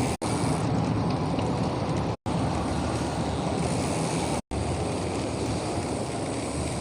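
Steady rushing wind noise on the microphone with low traffic rumble, as heard while riding a bicycle. It cuts out for a split second three times.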